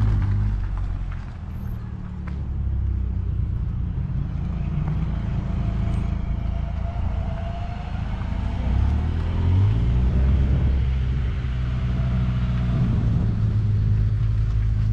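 Engine and exhaust of a first-generation Ford Probe hatchback running as the car drives slowly off, its low note rising and falling with the throttle.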